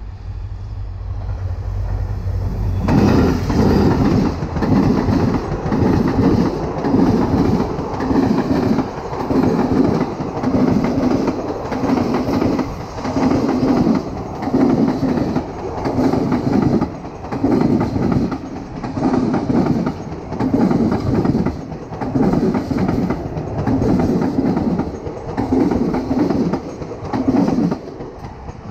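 Passenger train passing close by: the low hum of the WDP-4B's EMD two-stroke diesel as it approaches, then, about three seconds in, a loud, steady clickety-clack of coach wheels over the rail joints, about one beat a second, as the coaches run past. It drops away near the end as the last coach goes by.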